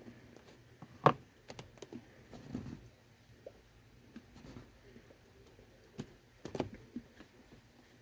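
Chewing a crunchy nut bar: scattered sharp crunches and clicks, the loudest about a second in and another cluster a little over six seconds in.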